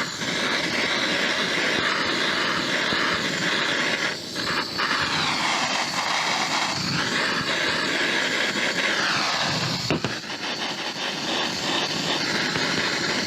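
Handheld butane torch burning with a steady hissing jet of flame, briefly dropping off about four seconds in and again around ten seconds. The torch is running low on butane.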